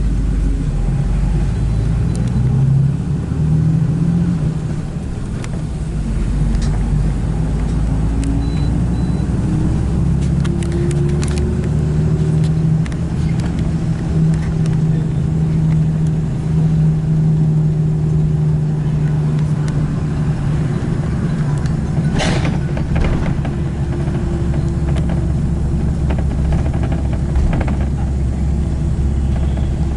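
A car driving: steady engine and road rumble, the engine note rising and settling as speed changes. A short sharp click or knock stands out about two-thirds of the way through.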